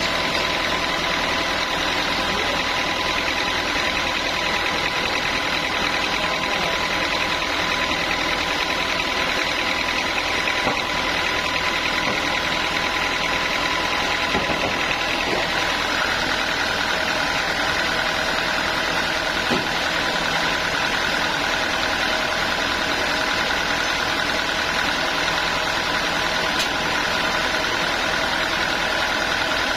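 Homemade band sawmill running steadily as it saws a teak log, its blade and drive giving a constant whine over a rushing noise; about halfway through the whine shifts to a lower pitch.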